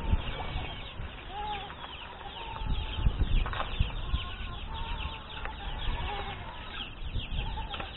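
A flock of farmyard poultry calling: rapid high chirping runs throughout, with short clucks mixed in. Low rumbling thumps sit underneath.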